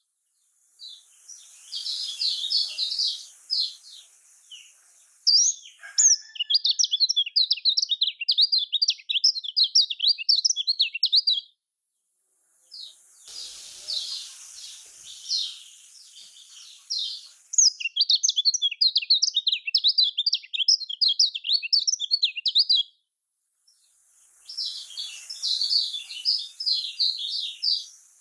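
Kecial kuning (Lombok yellow white-eye) singing long, fast twittering phrases of quick high up-and-down notes in several bouts, with short gaps between them. A hiss comes and goes with some of the bouts.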